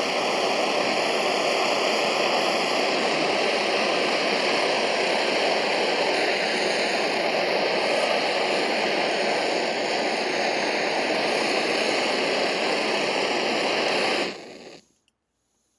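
Pressurised gasoline burner of a vintage blowlamp-type soldering iron burning with a steady rushing noise, cutting off about 14 seconds in.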